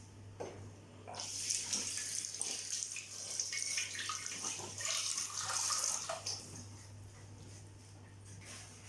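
Kitchen tap running, starting about a second in and easing off about six seconds in, with a few small knocks.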